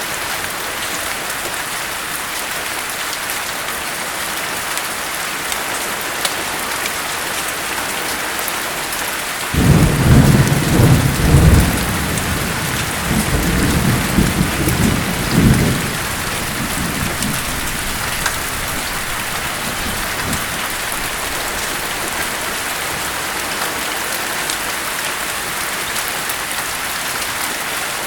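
Steady rain hissing, with a sudden clap of thunder about a third of the way in. The thunder rumbles low for about six seconds, then fades back into the rain.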